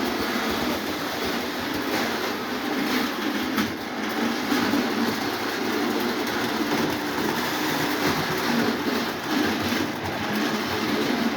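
Lionel O27 toy trains running on three-rail track: a steady motor hum and wheel rumble, with scattered clicks of wheels passing over the rail joints.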